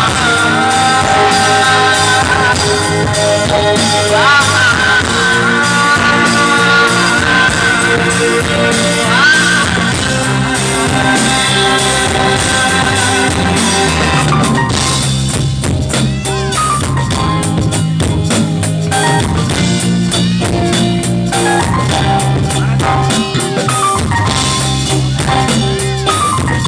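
Instrumental break of a live band playing a Bengali song: a sliding, wavering melody line over bass and drum kit. The drums hit harder and busier from about halfway.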